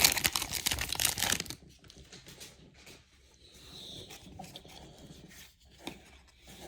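A trading-card pack wrapper being torn open and crinkled for about a second and a half, then faint handling of the cards.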